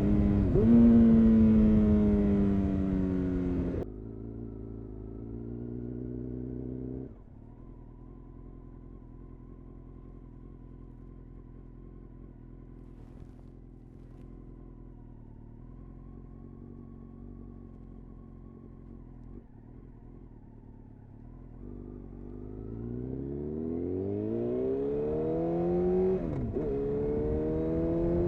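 2000 Honda CBR929RR Fireblade's inline-four through an Erion full racing exhaust, slowing down with the revs falling, then idling steadily for about fourteen seconds. About two-thirds of the way through it pulls away, revs rising, with an upshift near the end before the revs climb again.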